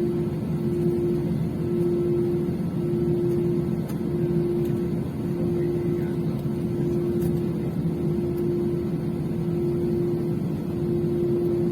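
Steady drone inside a passenger airliner's cabin, with one constant humming tone over a lower rumble and no change in pitch.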